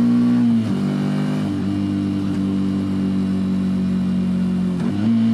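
Motorcycle engine running at steady revs while riding. Its note dips and changes pitch about half a second in and again near the end.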